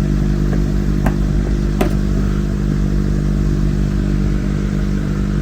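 Electric cooling fan running with a steady hum, with a couple of sharp clicks about one and two seconds in as needle-nose pliers work the fender fasteners.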